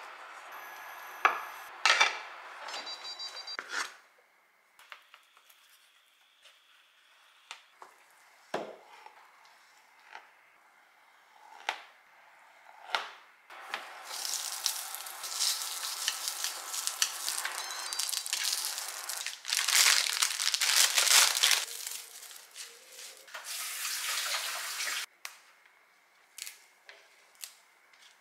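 Ham strips sizzling as they fry lightly in a square egg-roll pan, starting about halfway through, loudest a little later and stopping abruptly near the end. At the start, a few sharp knocks of a wooden spatula pressing a rolled omelette in the same pan.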